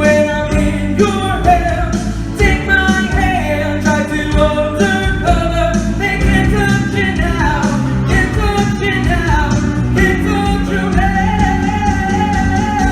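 A man singing live over a rock-and-roll backing track with a steady beat.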